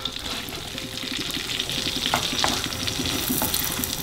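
Chopped shallots sizzling in melted butter in a frying pan as a wooden spoon stirs them, with two light knocks of the spoon about two seconds in.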